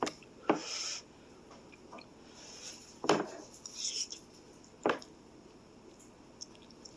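Utensils knocking and scraping against a dish of noodles: a few separate knocks, about half a second in, about three seconds in and near five seconds, with a short scrape after the first.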